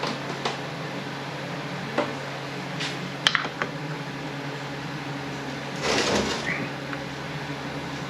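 Metal parts of an automatic transmission being worked by hand: a few sharp clicks and knocks, then a short scrape about six seconds in, as a stuck part refuses to slide off. A steady low hum runs underneath.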